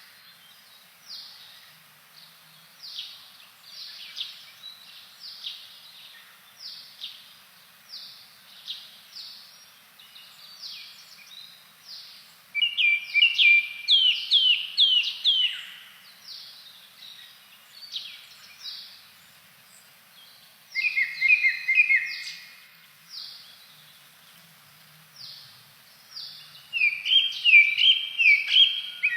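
Blue-and-white flycatcher singing: a steady string of short whistled notes sweeping downward, broken by louder runs of quick notes about twelve, twenty-one and twenty-seven seconds in.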